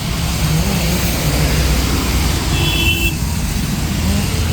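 Road traffic: a steady low rumble of vehicles, with a brief high beep about halfway through.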